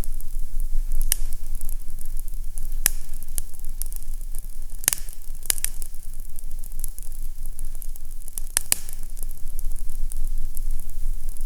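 Fireplace fire burning with a steady hiss and low rumble, broken by sharp crackling pops about a second in, near three seconds, a cluster around five seconds, and a pair near eight and a half seconds.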